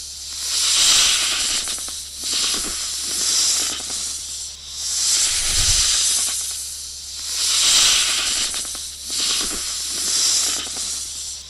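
Cartoon king cobra sound effect: repeated hissing in long swells that rise and fade every second or two, with a low thud about halfway through.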